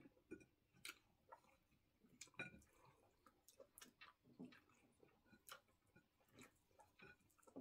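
Near silence broken by faint, irregular clicks and mouth noises of people eating with their hands, chewing and picking food off plates.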